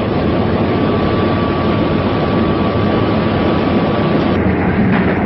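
Underground electric train running, a dense steady roar with a thin high whine that cuts off about four seconds in. A few sharp knocks come near the end.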